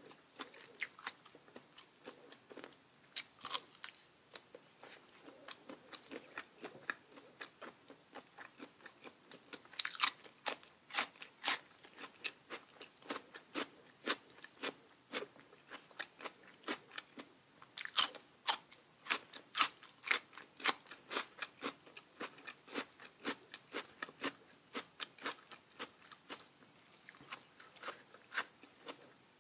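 Close-up chewing of crisp raw vegetables, a long string of sharp crunches and bites. The crunches come loudest and thickest about ten seconds in and again from about eighteen to twenty-one seconds.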